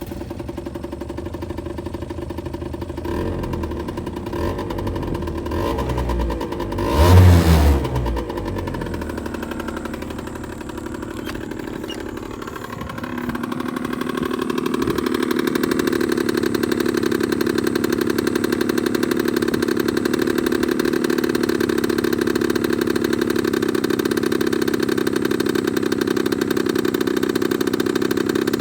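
Small two-stroke scooter engine (a Honda Super Dio AF27, 50 cc) with an expansion-chamber exhaust, running in a Takeoka Abbey microcar just after starting. It revs up to a loud peak about seven seconds in, drops back, and from about fourteen seconds runs steadily and louder.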